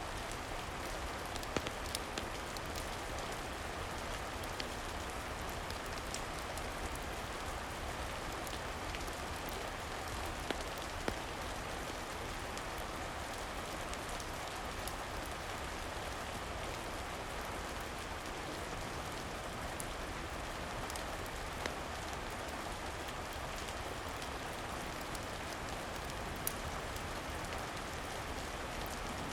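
Steady rain falling, an even hiss that does not change, with a few sharp pops scattered through it.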